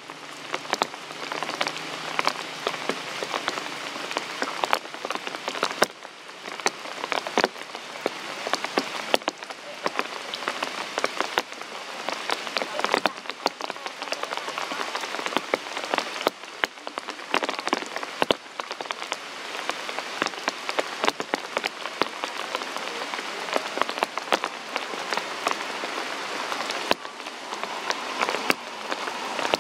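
Steady rain falling, an even wash of noise with frequent sharp, close drop hits throughout.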